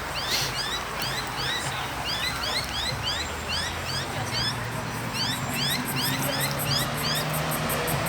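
Birds chirping: many short rising chirps, several a second and overlapping, over a low steady hum.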